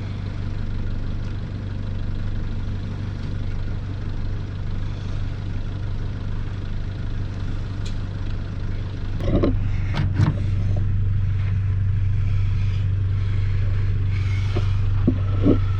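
Steady low drone of a 4x4 vehicle running on the road, with a few short clatters and knocks about nine to ten seconds in and again near the end.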